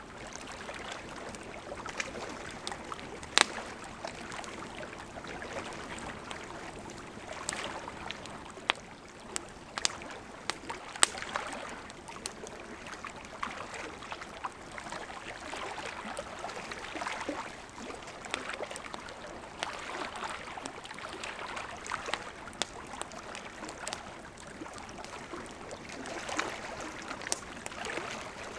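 Burning wood in a campfire crackling: a steady hiss of flames with frequent sharp pops and snaps, a few louder pops standing out.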